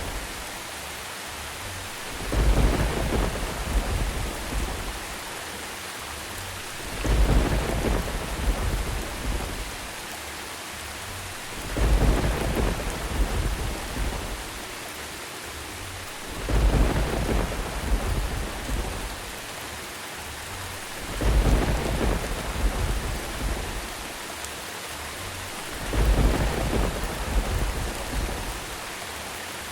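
Steady rain with rolls of thunder. Six rumbles swell up and fade at even intervals of about five seconds.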